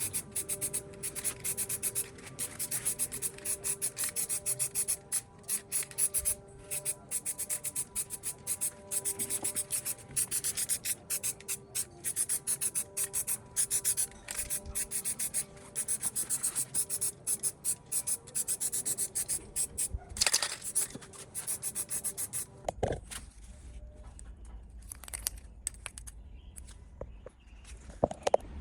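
Rapid back-and-forth hand scrubbing strokes, several a second, like abrasive rubbing on a metal part. The strokes stop about 23 seconds in, leaving a low hum and a few light knocks.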